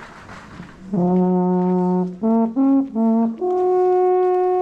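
A horn playing a slow tune: a long low note about a second in, three short notes, then a long higher note held.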